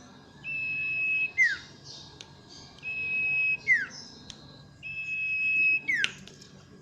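Common iora (cipoh) singing. It gives three long level whistles, each ending in a quick falling note, about two seconds apart.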